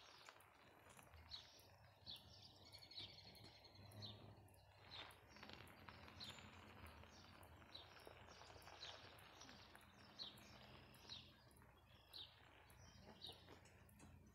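Faint birds chirping, short high calls repeating about once a second, over low steady background noise.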